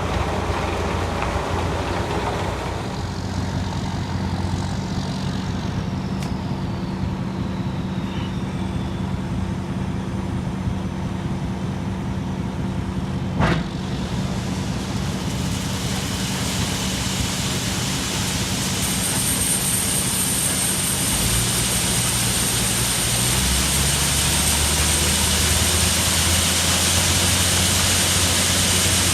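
Semi truck's diesel engine running, heard from the cab, with a steady low drone and a sharp click near the middle. In the second half a road-and-wind hiss grows louder, and the engine note steps down twice.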